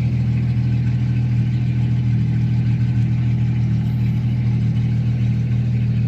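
Straight-piped Jeep 4.0L inline-six idling with a loud, steady exhaust note.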